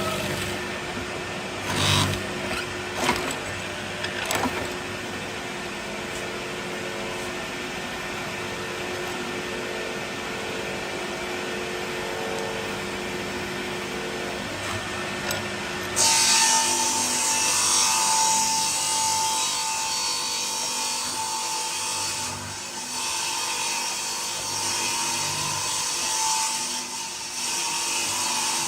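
Power woodworking tools running on wood. A steady machine sound with a few knocks early on switches abruptly, about halfway through, to a brighter, hissier cutting sound with a steady high whine.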